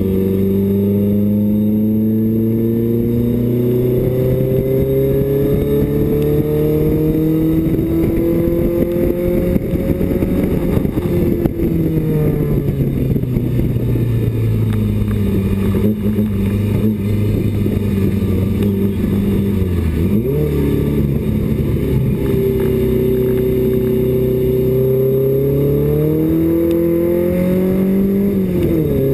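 Inside the cockpit of a BMW 2002 race car, its four-cylinder engine is under load and pulling through the revs at racing pace. The pitch climbs steadily for about ten seconds and falls off as the driver lifts. It holds lower for a while, then makes a quick dip and rise about two-thirds of the way in, a gear change, before climbing again. It drops sharply at another shift near the end.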